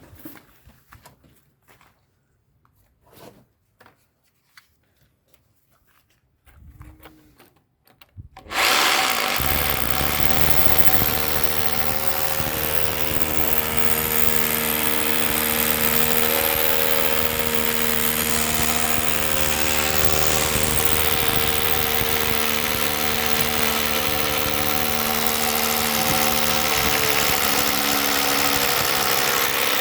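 A few faint knocks, then a motor starts abruptly about eight seconds in and runs steadily, with a hum and a hiss over it.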